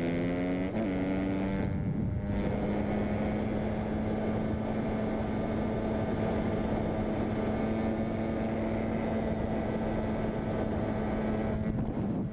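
Dirt bike engine revving up and down for the first second or two, then held at a steady high pitch.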